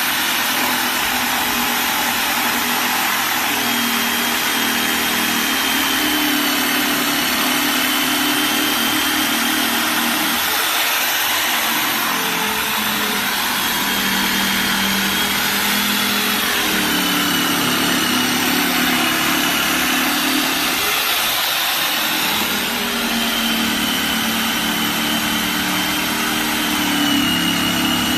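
Electric jigsaw running continuously, its motor whine shifting in pitch a few times over a steady hiss.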